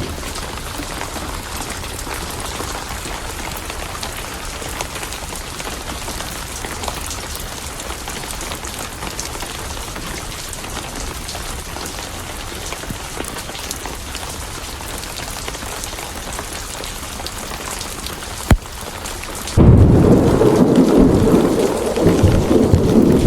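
Steady rain hiss, with one sharp crack about three-quarters of the way in. Near the end a loud rumble of thunder breaks in suddenly and keeps rolling.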